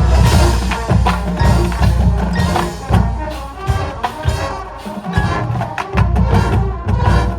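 Marching band playing in full, with a heavy low end under dense brass and sharp percussion strokes; the low end thins for a couple of seconds past the middle, then comes back in.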